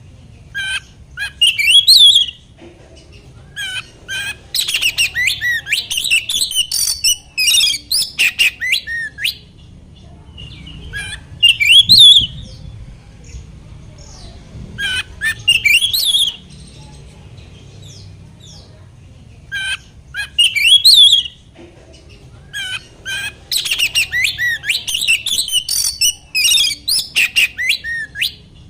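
Oriental magpie-robin (kacer) singing in loud, varied phrases of rapid whistles, slurred notes and chattering, six or so bursts of one to five seconds with short pauses between them.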